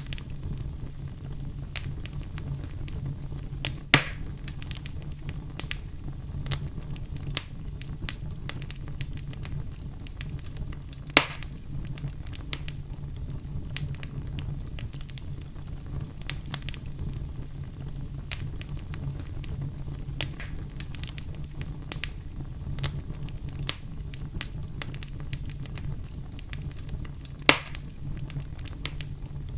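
Wood fire burning in a fireplace: a steady low rumble under scattered crackles, with three louder pops at about 4, 11 and 27 seconds in.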